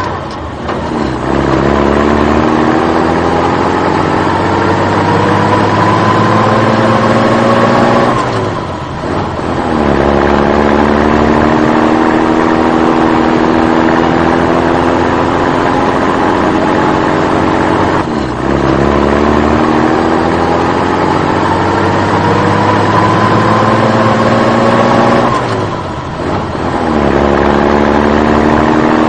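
Vehicle engine accelerating through the gears: a steady rising whine that climbs for about eight seconds, drops sharply as if shifting, then climbs again, three times over.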